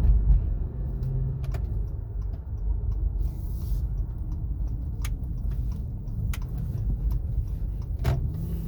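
Steady low road and drivetrain rumble of a 2017 Acura MDX heard from inside the moving car, with a few sharp clicks or ticks scattered through it.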